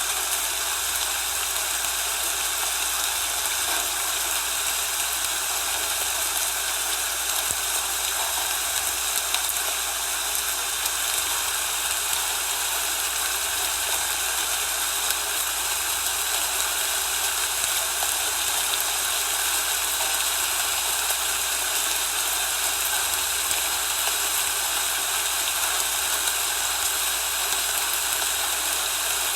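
Steady, even rushing noise with no events or rhythm, and a low hum underneath it.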